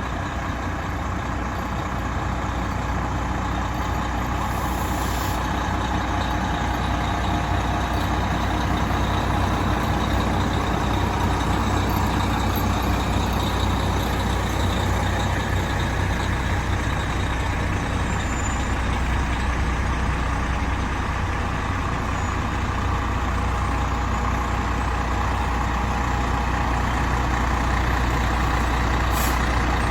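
Fire truck's heavy diesel engine running steadily as the apparatus rolls slowly past, with a brief high hiss about four to five seconds in.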